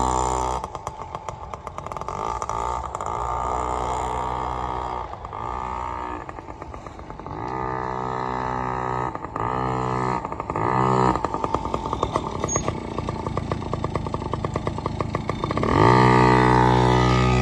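Yamaha PW50's small two-stroke single-cylinder engine running. About a second in it drops to a choppy idle, then it picks up to a steadier higher note several times and rises again near the end.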